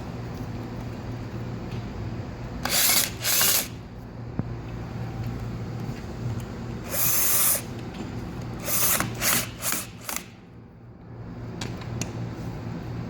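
Cordless drill driving screws into a wheelchair's back, in short bursts: two near the start, a longer run midway, then several quick pulses as a screw is seated.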